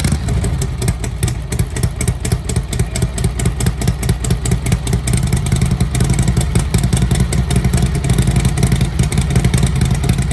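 1946 Harley-Davidson EL Knucklehead's overhead-valve V-twin running steadily just after a cold kick start, on one click of choke with the spark retarded, its firing pulses coming in an even rhythm.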